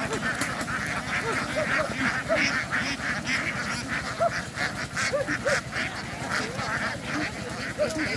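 A large flock of ducks quacking, many short calls overlapping into a continuous din.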